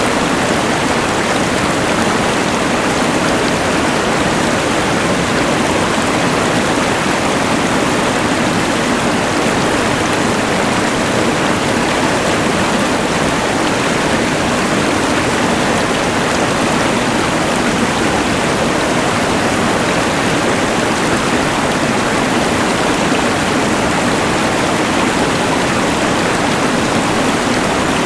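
Rushing mountain river mixed with the hiss of a LectroFan white noise machine: a steady, even rush of water and noise that does not change.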